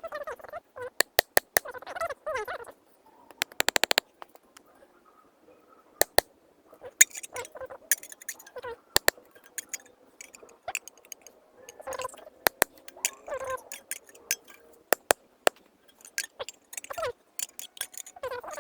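Scattered sharp clicks and knocks of hands handling wood and a metal pot, with a quick run of ticks about four seconds in.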